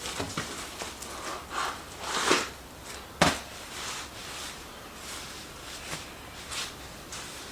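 Cardboard box being handled and opened: a few rustling, scraping swishes, with one sharp knock about three seconds in.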